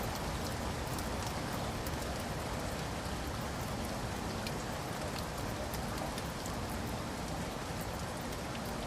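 Steady rain, an even hiss with many scattered sharp ticks of individual drops.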